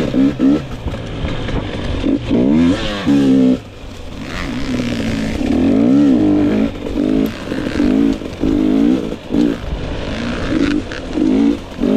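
2022 GasGas EX 250 two-stroke fuel-injected enduro bike engine revving on and off the throttle, its pitch rising and falling over and over. About four seconds in the engine drops off briefly, then climbs steadily before a run of quick throttle blips.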